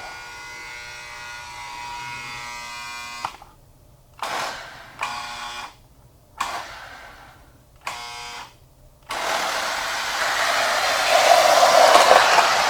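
Older Lionel toy train locomotives' electric motors on the track. A steady whine made of several tones cuts off after about three seconds. Four brief spurts of motor noise follow, and from about nine seconds a loud whirring run builds.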